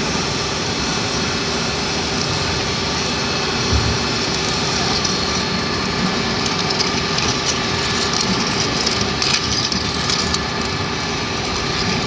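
A machine running steadily: a constant, loud mechanical noise with a faint steady hum through it.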